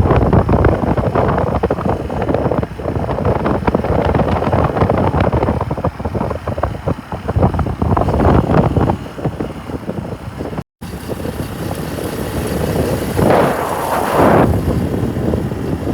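Wind buffeting the microphone of a moving motorcycle, with the engine running underneath; the audio cuts briefly about eleven seconds in.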